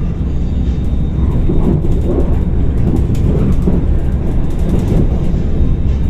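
Airport rail link train running at speed, heard from inside the carriage as a steady low rumble, with a few faint clicks in the middle seconds.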